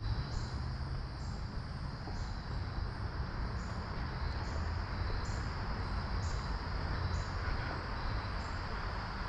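Crickets trilling steadily, with a higher-pitched insect chirp repeating a little more than once a second, over a steady low rumble.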